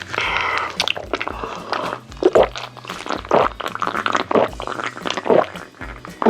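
Close-miked wet chewing and slurping of chicken, with irregular squishy mouth sounds every half second or so, over background music with a repeating low bass line.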